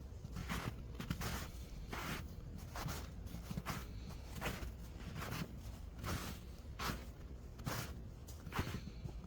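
Footsteps of a person walking on snow, about two steps a second, over a steady low rumble.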